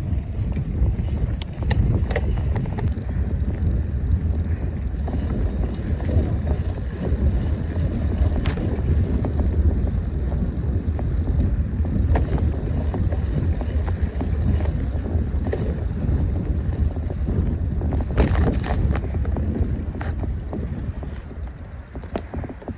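Wind buffeting the microphone of a bicycle rider on the move, a heavy low rush mixed with road noise and scattered clicks and knocks; it eases a little near the end.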